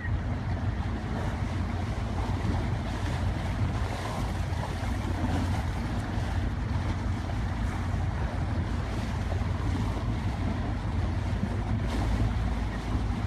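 Wind buffeting the microphone aboard a small boat at sea, over water noise and a steady low rumble.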